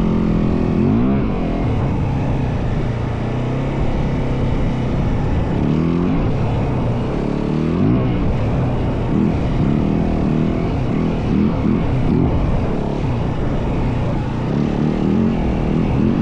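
Yamaha WR450F single-cylinder four-stroke dirt bike engine running under way while being ridden, its revs rising and falling repeatedly as the throttle is worked and gears change.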